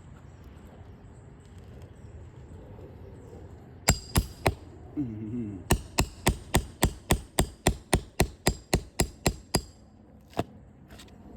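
Roofing hammer striking in quick succession on a shingle roof: three sharp blows, then a steady run of about fifteen at roughly four a second, and one last blow near the end.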